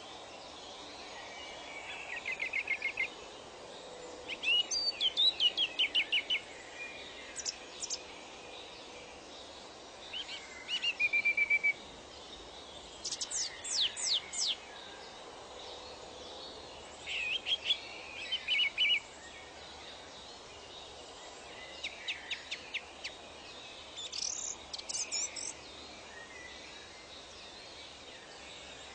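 Songbirds singing in short phrases every few seconds: quick trills and rapid runs of high notes, over a steady faint hiss of ambience.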